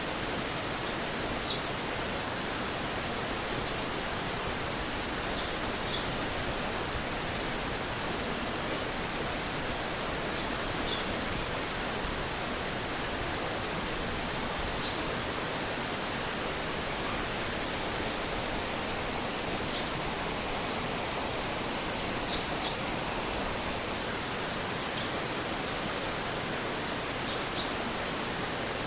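Stream water rushing steadily in an even, full hiss. Short faint high chirps break through it every few seconds.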